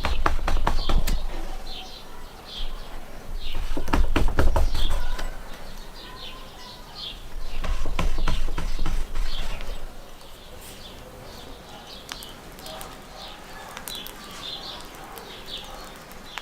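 Small birds chirping again and again, high and short. Three stretches of low rumble with a cluster of clicks come in the first ten seconds.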